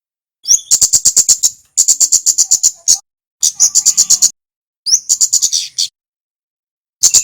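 Kemade (kemlade) songbird calling in short bursts of rapid, high chipping notes, about eight to the second. The bursts are about a second long and come five times, with short pauses between.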